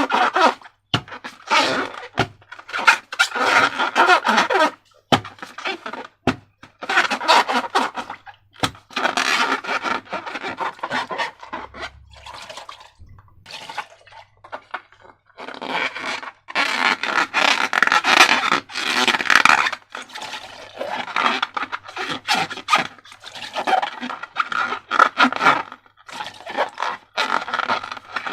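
Slime being worked by hand in irregular wet, sticky bursts of squishing, pouring and crackling, with brief pauses between.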